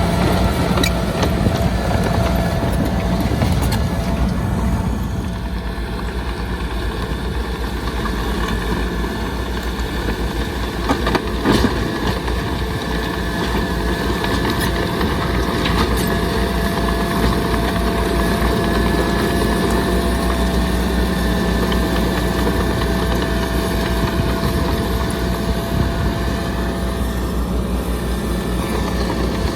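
Heavy diesel earthmoving machinery running steadily under load, with a thin steady whine over the engine and one sharp knock about eleven seconds in.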